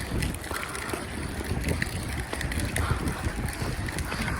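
Wind blowing across the microphone, a gusty low rumble that rises and falls unevenly.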